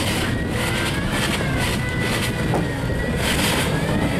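A car engine running steadily, with wind buffeting the microphone and a faint whine that shifts slightly in pitch.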